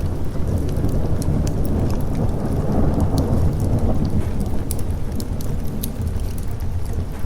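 Thunderstorm ambience: steady rain over a deep, continuous rumble of thunder that swells and rolls for a couple of seconds in the middle, with scattered sharp crackles on top.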